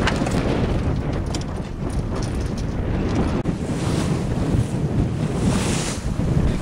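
Wind buffeting the microphone over water rushing and splashing past a sailboat's hull under sail, with a louder swell of hiss about five to six seconds in.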